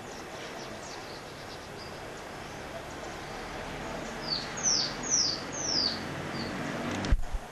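Birds calling: faint high chirps, then a bird gives four loud, high calls in quick succession, each sliding downward in pitch, followed by a fainter one. A short low thump near the end, over a steady background hiss.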